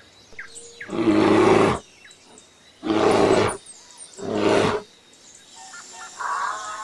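Three loud big-cat roars, a second or less each, close together.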